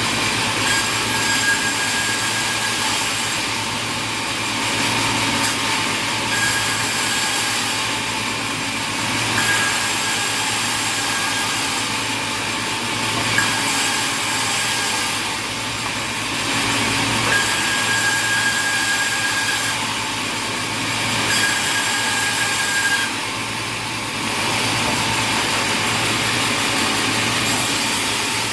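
Sawmill saw machinery cutting timber: a steady noisy din with a low hum, swelling and easing in cycles, and a thin high whine that comes and goes every few seconds as cuts are made.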